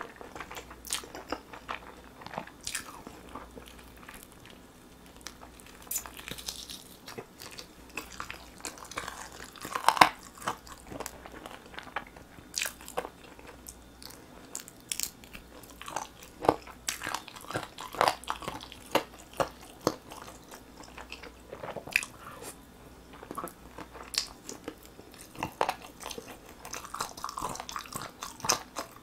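A person chewing and biting glazed roasted chicken drumsticks: irregular mouth clicks and smacks, the loudest about ten seconds in.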